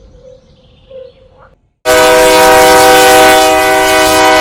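A loud, steady horn blast starts suddenly about two seconds in and holds without a break. Before it there are only faint chirps.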